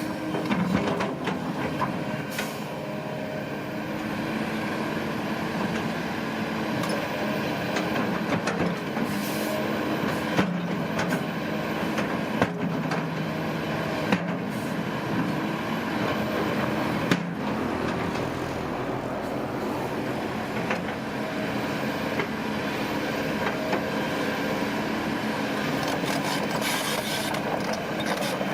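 Diesel engine of tracked heavy earthmoving equipment running steadily under load, with the clatter of steel tracks. A few sharp metallic clanks are heard around the middle.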